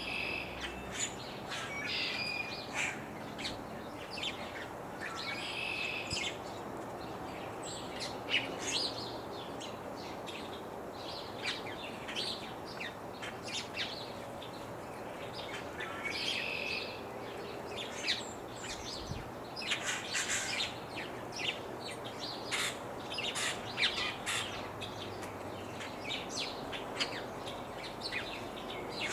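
Wild birds calling outdoors: many short, high chirps scattered throughout, with a longer call repeated a few times, over a steady breeze hiss.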